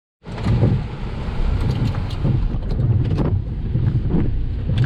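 Steady low rumble of wind and road noise from a vehicle driving in a storm, with scattered sharp taps.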